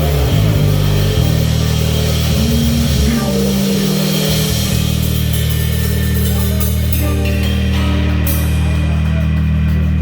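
Instrumental band music with drum kit, bass and electric guitar. Low notes move over the first few seconds, then a single chord is held, with a cymbal wash, as the song winds to its end.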